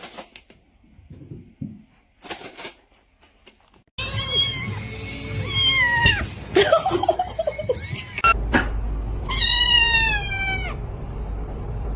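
Cat meowing in high-pitched calls, starting about four seconds in over a low hum, with one long falling meow near the end.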